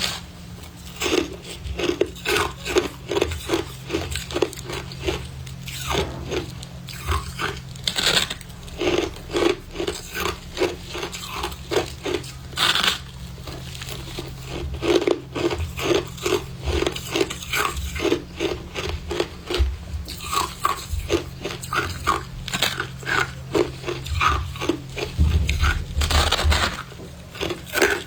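Someone biting and chewing freezer frost close to the microphone: a quick, steady run of soft crunches, about three or four a second, with brief pauses between mouthfuls.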